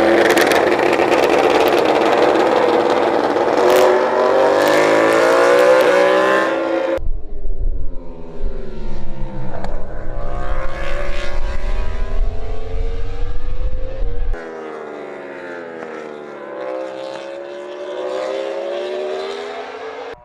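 Racing engine at high revs, pitch climbing in the first stretch, then sudden cuts to two quieter passages where the pitch drops and climbs again as it is revved through the gears.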